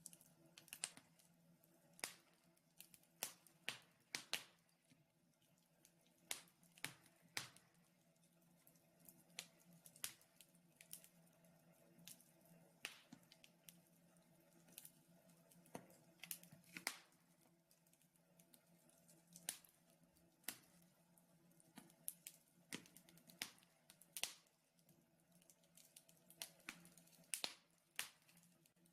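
Wood fire in a fireplace crackling, with irregular sharp snaps and pops, a few a second, over a faint steady low hum.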